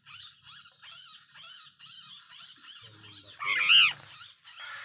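A bird calling with a quick series of short chirps, about three a second, and one much louder, harsh call about three and a half seconds in.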